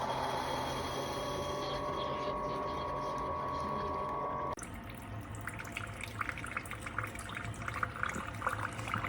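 Liquid running with a steady hum and a held tone, cutting off suddenly about halfway through. Then comes a crackling, spattering trickle over a low hum.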